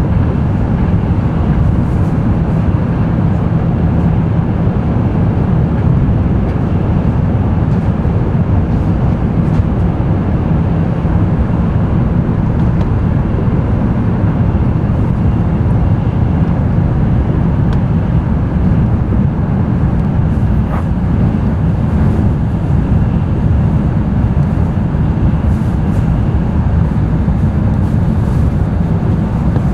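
Interior running noise of an N700-series Tokaido Shinkansen train at speed, heard inside the passenger car: a steady, loud low rumble with a few faint ticks.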